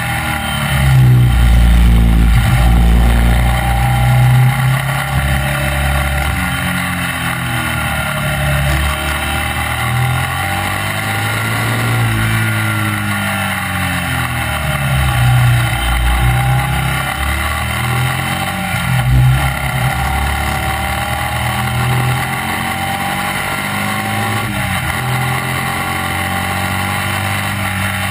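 Classic racing sidecar outfit's motorcycle engine heard onboard at racing speed, the revs climbing through the gears and dropping back again for the corners, over steady wind noise.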